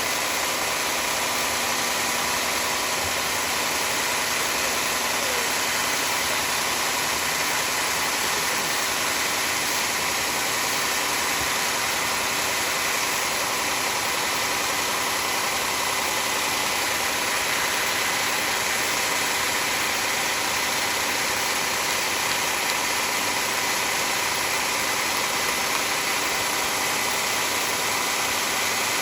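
Sawmill machinery running steadily, an even, unchanging mechanical drone.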